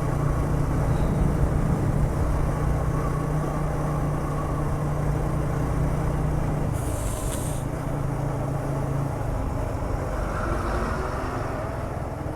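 A vehicle's engine running steadily on the move, with road noise throughout and a short hiss about seven seconds in.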